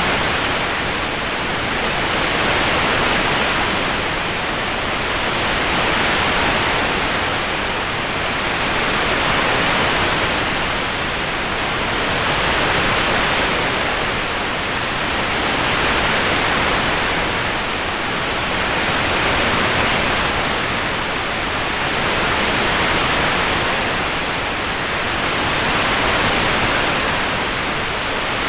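Rain-sound ambience track: an even, dense hiss with no separate drops or drips, swelling and easing gently about every three seconds.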